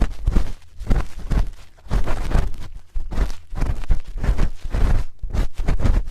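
Spoon scraping and rubbing against a microphone's ear, close up, in irregular strokes of a fraction of a second to about a second each, with deep thuds of handling underneath.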